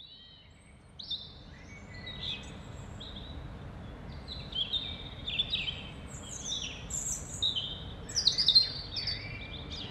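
Small birds chirping: many short, high chirps, mostly falling in pitch, starting about a second in and growing busier toward the end, over a faint steady hiss.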